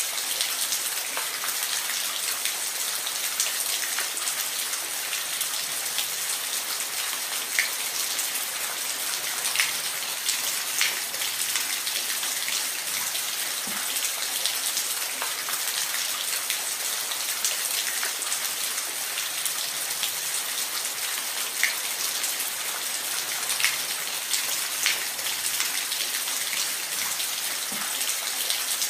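Steady rush of falling water, mostly hiss with little low rumble, with scattered sharp splashes and drips standing out above it.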